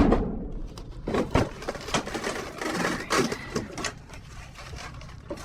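Irregular knocks and clattering as a heavy, metal-filled piece of scrap is lifted and shifted among other junk in a bin, with the sharpest knock at the very start.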